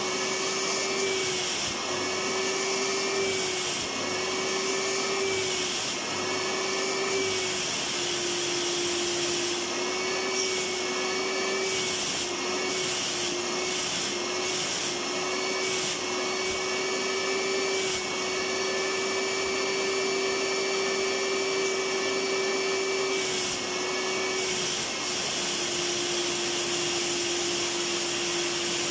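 Electric vacuum cleaner running continuously: a steady rush of air with a motor whine that dips briefly every second or two and settles slightly lower in pitch a couple of times.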